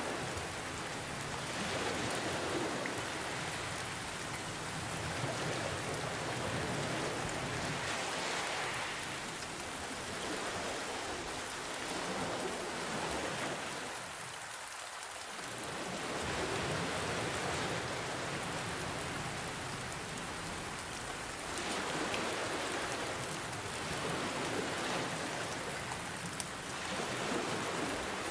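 Steady rain falling, mixed with ocean waves that swell and ebb every few seconds.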